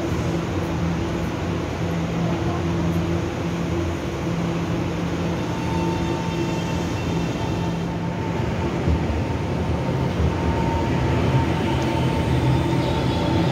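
Electric commuter trains at a station platform: a steady electrical hum with rumble, a steady whine from about halfway, then from about nine seconds a train moving past with wheel rumble and a gliding motor whine near the end.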